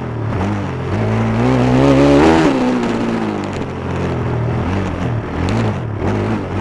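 Stomp KZR140 pit bike's 140cc four-stroke single-cylinder engine riding hard around a dirt track. It revs up to a peak about two seconds in, backs off, then rises and falls several times as the throttle is worked.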